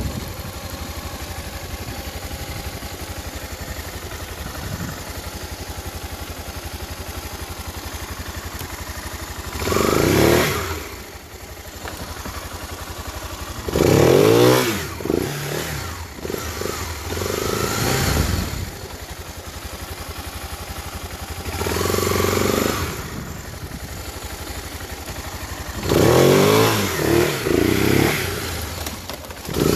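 Honda XRE300's single-cylinder engine running steadily at low revs, then revved hard in about five bursts of a second or two each, the pitch rising and falling, as the motorcycle spins donuts on loose dirt.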